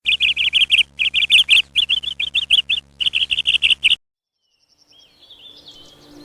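Small bird chirping rapidly, in four quick runs of chirps that stop suddenly about four seconds in. Faint gliding whistles start near the end.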